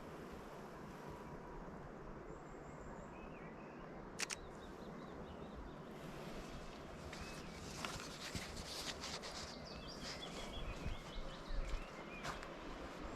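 Birds chirping in short calls, busier in the second half, over a steady outdoor hiss. Two sharp clicks, one about four seconds in and one near the end.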